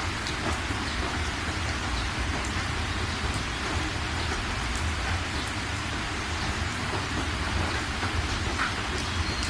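Steady rain falling, an even hiss with scattered single drop ticks, over a continuous low rumble.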